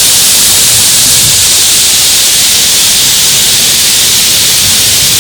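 Waterfall rushing close by: a loud, steady hiss of falling water strongest in the high range.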